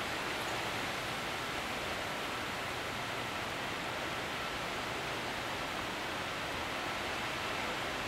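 Steady hiss of rain falling, an even rushing noise with no breaks.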